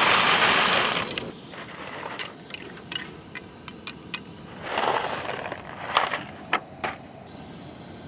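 Dry rotini pasta pouring into a pot, a dense rattle that stops about a second in. Then a few light clicks and scrapes, with a short rustle around five seconds.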